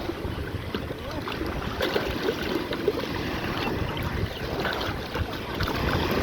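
Wind buffeting the microphone over the wash of sea waves at a beach.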